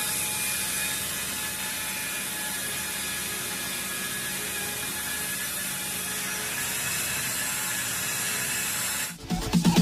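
Electric car polisher running steadily with a whir, stopping suddenly about nine seconds in; electronic music with a beat starts just after.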